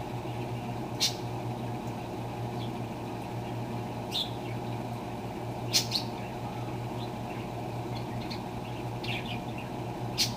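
Electrolux LTR10 washing machine running with a steady low hum, during the rinse-and-spin part of its cycle. Short high bird chirps come in about six times over it.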